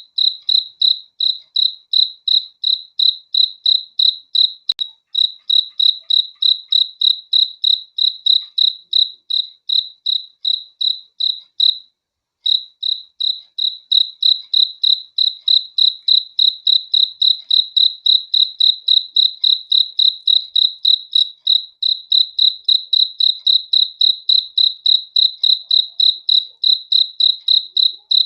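Cricket chirping in a steady, even rhythm, about three high-pitched chirps a second, with a brief pause about twelve seconds in.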